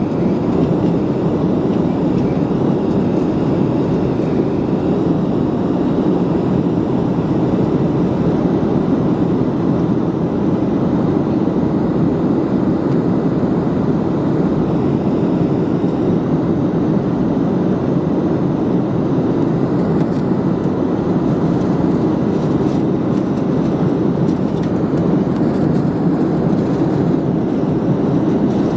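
Steady roar inside the cabin of a Gol Boeing 737 airliner: jet engine and airflow noise, even and unbroken throughout.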